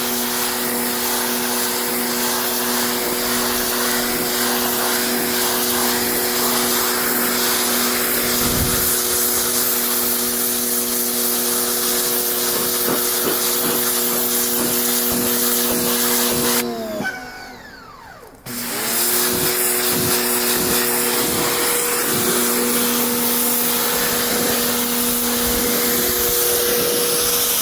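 Electric motor of a cleaning machine running with a steady hum and whine. About 17 seconds in it winds down and stops, then starts up again a second and a half later and runs on steadily.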